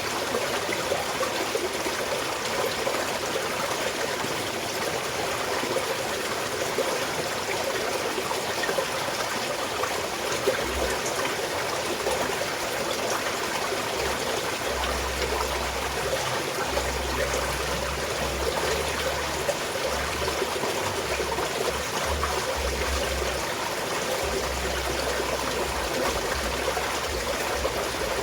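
Small mountain stream running and trickling over rocks, a steady even rush of water. A low rumble comes and goes underneath in the second half.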